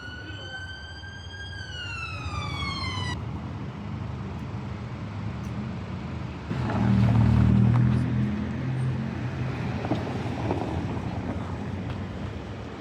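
A single clear siren-like tone that glides up, then down, and cuts off abruptly about three seconds in. It is followed by town street noise, in which a motor vehicle passes close by with a low engine hum, loudest about seven seconds in.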